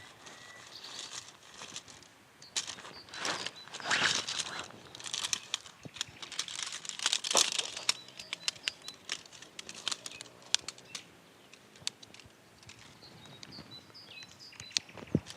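Crinkling and rustling in irregular bursts, with many scattered sharp clicks.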